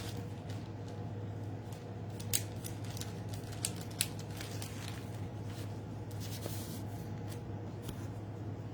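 A few sharp clicks and light taps of craft supplies being handled and put away on a work table, over a steady low hum.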